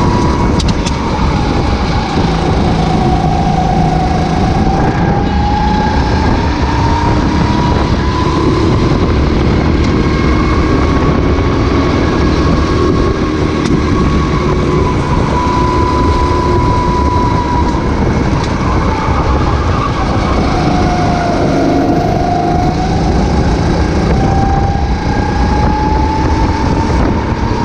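Racing kart engine running on track. Its pitch falls and climbs slowly several times as the kart slows and speeds up, over a steady low rumble.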